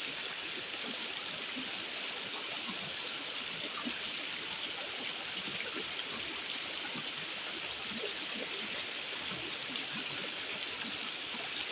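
Steady rushing water with small scattered drips.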